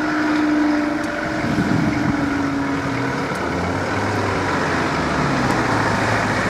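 Road vehicles, including a truck, starting to drive across a level crossing after the barriers have gone up: a steady engine hum with a low engine note building about halfway through.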